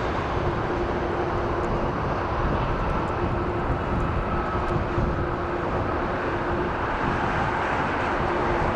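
Jet airliner engines running: a steady, dense rumble with a steady hum through it.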